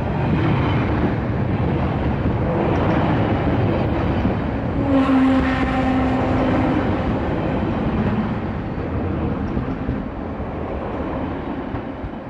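A train running past close by, loud and steady. About five seconds in, a steady pitched tone sounds over it for about two seconds, and the train fades near the end.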